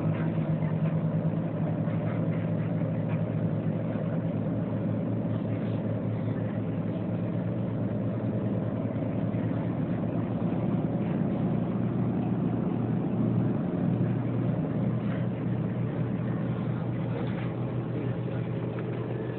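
Passenger ferry's engines running steadily under way, a constant low drone heard from on board.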